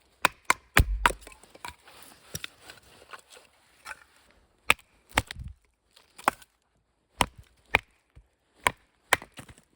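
A knife being batoned through wood: a wooden baton striking the spine of the knife in about a dozen sharp knocks at uneven intervals, a few landing with a deeper thud as the wood splits.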